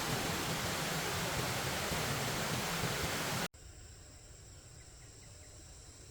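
Steady rushing of a waterfall that cuts off abruptly about three and a half seconds in. It gives way to a quieter forest background of insects droning in steady high tones.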